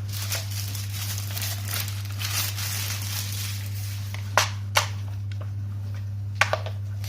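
Plastic packaging being crinkled and handled for the first few seconds, then a few sharp plastic clicks and knocks about halfway through and near the end.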